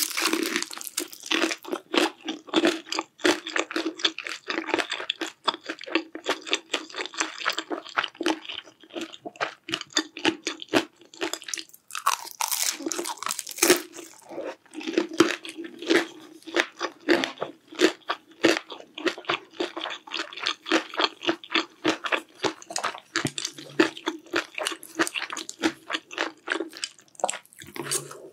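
Close-miked eating sounds: rapid, crisp crunching and chewing of food.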